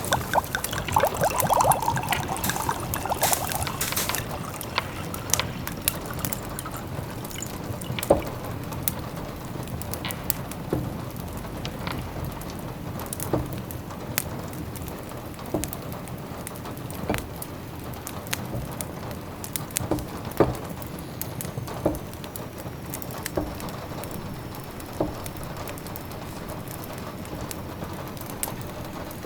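Wood fire crackling with scattered sharp pops over a steady soft hiss of rain, with a cluster of bubbling, liquid sounds in the first few seconds.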